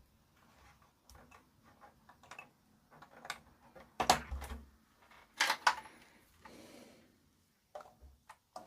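Small clicks and handling noises of wire connectors being pushed back onto the sockets of an amplifier's circuit board, with two louder clacks about four and five and a half seconds in.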